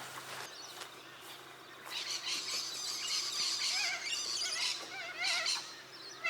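Birds calling in the bush: a dense chorus of high chirps starts about two seconds in. From about four seconds a wavering, warbling call repeats over it.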